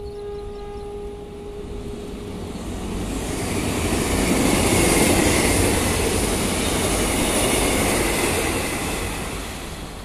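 Electric multiple-unit commuter train passing on a rail viaduct: rolling wheel-on-rail noise swells to a peak as it goes by, then fades away. A steady pitched tone sounds for the first second and a half.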